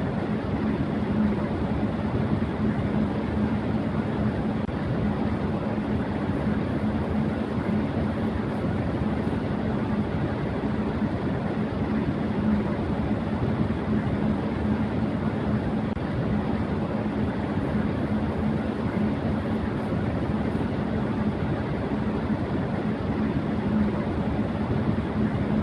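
Electric fan running at high speed: a steady rush of air with a steady low hum underneath.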